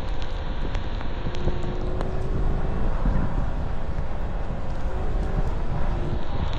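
Car on the move: steady engine and road rumble with wind buffeting the microphone, plus a few faint ticks.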